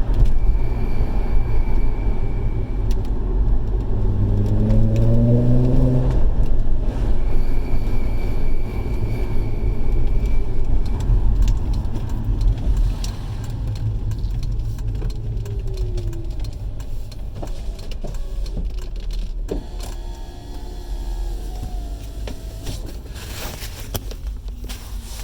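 VW Golf R32 Mk4 on the move, with steady road and engine rumble; the engine revs up once. A thin high-pitched whine comes in twice, each time for a few seconds, on lifting off the accelerator. It is the unexplained whine that the owner places on the passenger side, front or rear.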